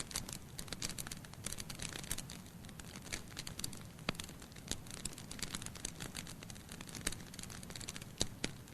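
Wood logs burning in a fireplace: irregular sharp crackles and pops over a soft low hiss of flame.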